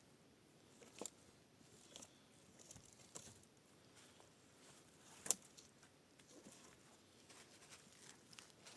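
Faint, irregular small clicks and crackles over near silence, with one sharper snap about five seconds in.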